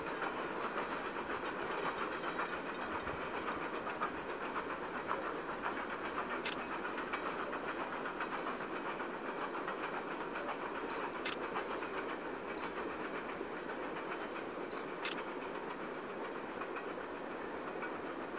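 A train moving away: a steady rumble and wheel clatter on the rails, slowly fading, with a few faint sharp clicks.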